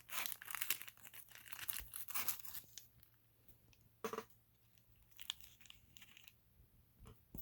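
Crinkly rustling and crackling of plastic model-locomotive parts being handled close to the microphone for the first two and a half seconds or so, then a few light, scattered clicks and taps.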